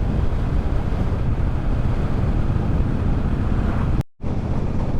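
Wind buffeting the microphone over the low, steady drone of a Triumph Bobber's 1200 cc parallel-twin engine at riding speed. The sound cuts out completely for a split second about four seconds in.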